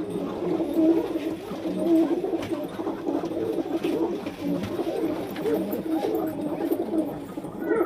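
Several domestic pigeons cooing, overlapping in a continuous low warbling chorus, with a short higher call near the end.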